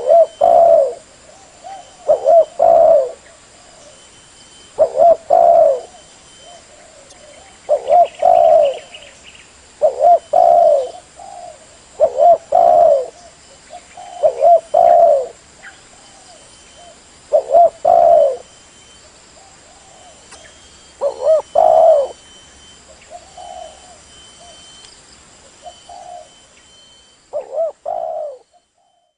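Spotted dove (tekukur) cooing: a short phrase of low coo notes, repeated about every two to three seconds.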